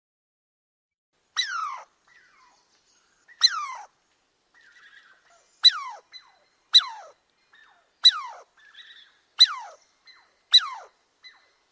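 An animal giving about eight short, high cries, each sliding steeply down in pitch, spaced one to two seconds apart, with faint softer sounds in between.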